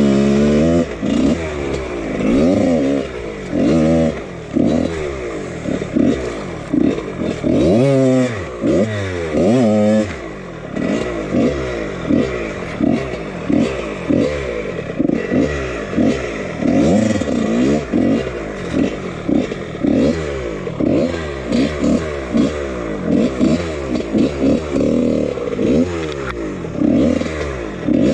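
1999 Husqvarna CR125 two-stroke dirt bike engine being ridden hard, revving up and falling back over and over as the throttle is worked on a woods trail.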